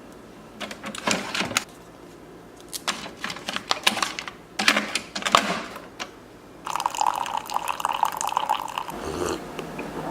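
Several bursts of clattering and handling knocks, then about two seconds of steady, ringing liquid sound, like water running or being poured into a container.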